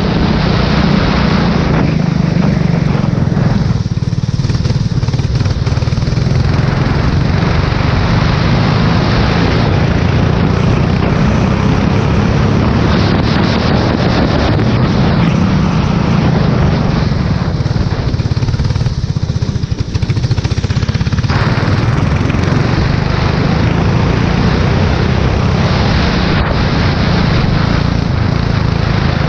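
Formula 4 race car engine running at speed on a wet track, with wind noise on the microphone. The higher noise thins out twice for a few seconds.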